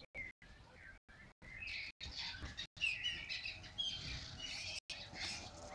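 Birds chirping and calling, many short chirps overlapping, busiest from about a second and a half in; the sound cuts out for an instant several times.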